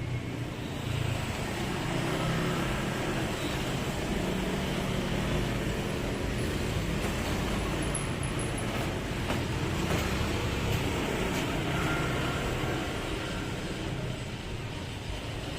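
Heavy 12-wheel truck's engine running steadily at low revs as it moves slowly.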